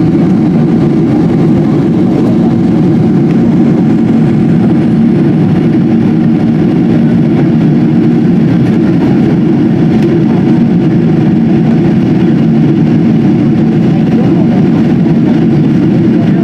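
Steady roar of jet engines and airflow heard from inside the cabin of a Boeing 777-200 airliner, a deep, even rumble that does not change.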